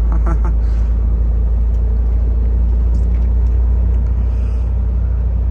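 Steady low drone of a semi-truck running down the road, engine and road noise heard from inside the cab.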